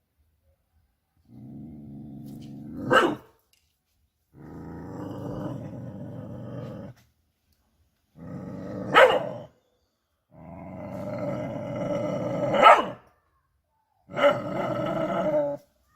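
A dog growling in five long rumbles with short pauses between them. Several growls end in a sharp, loud bark. This is threat growling from a dog squaring up to an animal.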